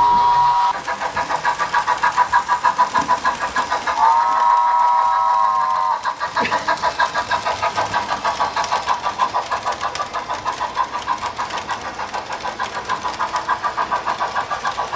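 HO-scale model steam locomotive's sound unit playing a steady chuffing beat, about four to five chuffs a second, with a chime whistle sounding for about two seconds about four seconds in; a short whistle note also ends just after the start.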